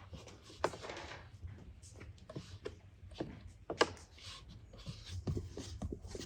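Scattered clicks and knocks of objects being handled, the sharpest about two-thirds of a second in and just before four seconds in, over a light hiss.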